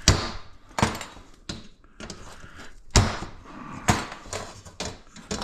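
Scrap metal being handled and knocked apart: a series of sharp metallic knocks and clanks at irregular intervals, the loudest right at the start and about three seconds in.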